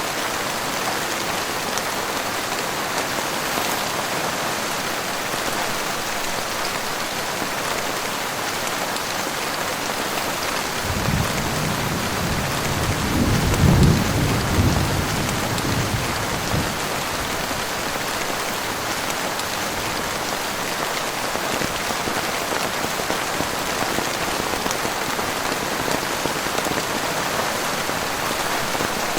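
Heavy rain falling steadily, with a roll of thunder rumbling in about a third of the way through and dying away over some five seconds.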